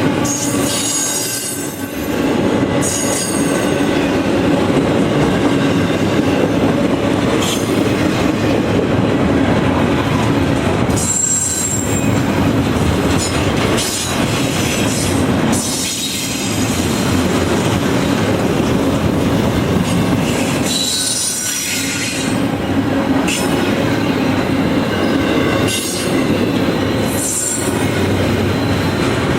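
A train rolling past at close range: a steady rumble of cars and wheels on the rails, with short high-pitched wheel squeals now and then.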